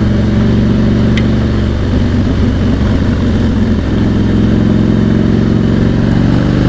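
V-twin cruiser motorcycle engine running at a steady cruise under the rider, with wind noise. The engine note wavers unevenly between about two and four seconds in, then holds steady again.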